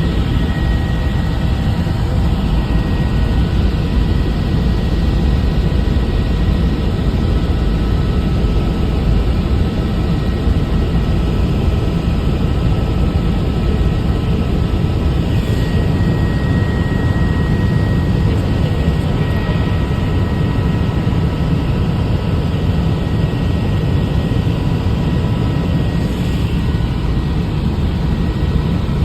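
Helicopter in flight: steady, loud rotor and engine noise with a faint steady whine above it.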